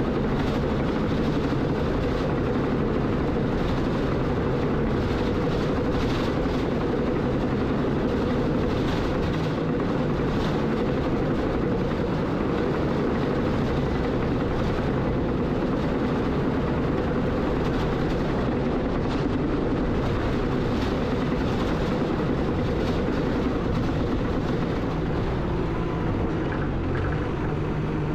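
Bulldozer's diesel engine running steadily while working dirt, with a few faint clanks over it.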